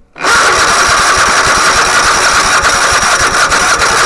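Electric starter cranking a White LT 946G lawn tractor's engine, turning it over with an even pulse and a steady whine without it catching. It starts about a quarter second in and runs on steadily.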